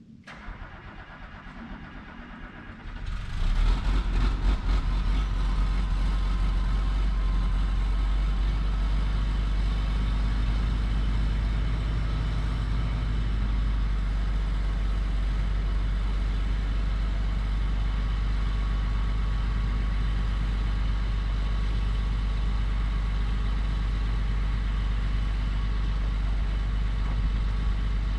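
John Deere 790 excavator's diesel engine starting: about three seconds of quieter cranking, then it fires right up, runs up briefly and settles into a steady idle.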